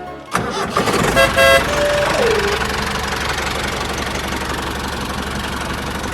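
An engine starts up abruptly and keeps running steadily, with two short horn toots about a second in.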